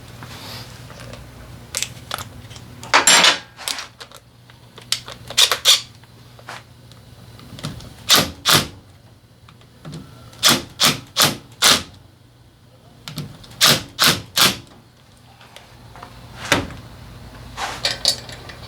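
Sharp clicks and knocks of hand tools and small engine parts being handled and set down, coming in small clusters of two to four.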